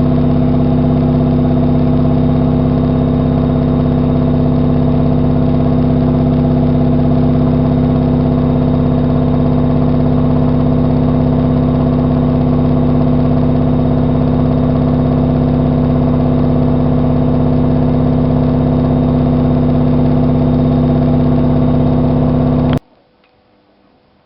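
AEG Lavamat 5210 washing machine running with a loud, steady hum at an unchanging pitch, which cuts off abruptly near the end.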